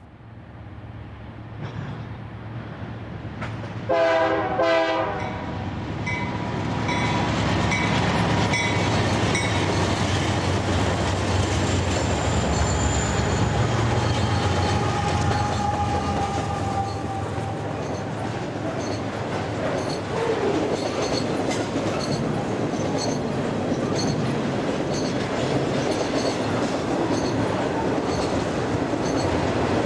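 Double-stack container freight train passing close by. A short horn blast about four seconds in, then the diesel locomotives go past with a heavy rumble and some wheel squeal through the crossover, followed by the regular clickety-clack of the wagon wheels over the rail joints.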